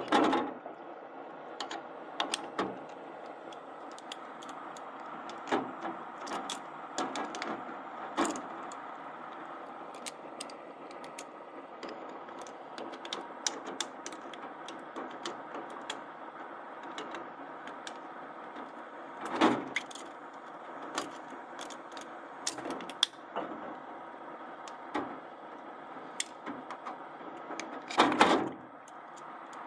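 Small metal carburetor parts clinking and knocking as they are handled and dipped in a cleaning bath, over a steady mechanical hum. There are a few louder knocks, about 19 and 28 seconds in.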